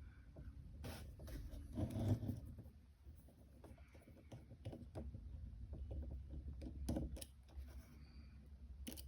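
Faint scattered clicks and light scraping of a precision screwdriver working tiny screws out of an iPhone SE's metal connector shield, with small taps of tools and screws being handled.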